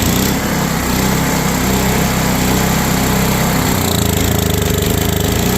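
Engine of an old Coleman Powermate PM900 portable generator running steadily, its low note shifting slightly a little past halfway.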